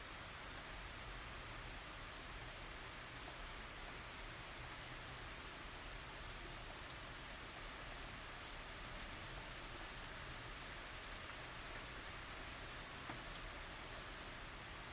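Steady tropical rain falling, an even hiss with fine scattered drop patter and no thunder.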